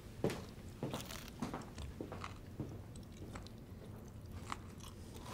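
Strips of crisp bacon being bitten and chewed, giving irregular soft crunches.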